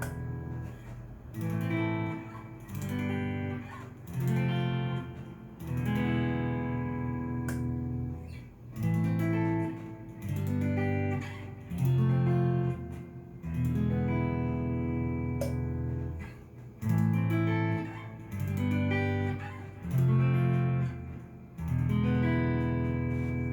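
Cort S-series electric guitar played straight into a Fender amp: chords struck one after another, each left to ring for a second or two before the next.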